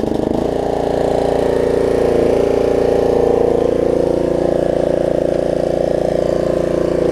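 Snapper rear-engine riding mower's engine, just started on choke after a carburetor cleaning, settling about half a second in from uneven firing into a steady run.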